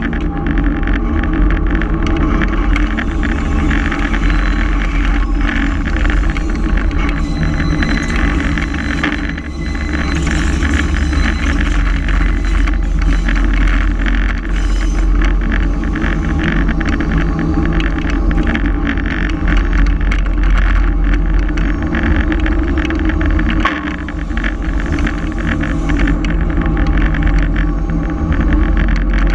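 Diesel switcher locomotive hauling a short train, its engine running steadily under the continuous rattle and clatter of the cars rolling over the track.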